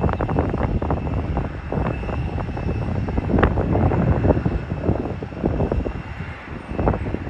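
Airliner jet engines running, with a steady high whine, heavily buffeted by gusty wind on the microphone.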